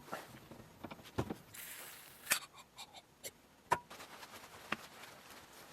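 Scattered light metallic clicks and knocks, about half a dozen, as the hydraulic cylinder's rod and piston assembly is handled and fitted back into the barrel.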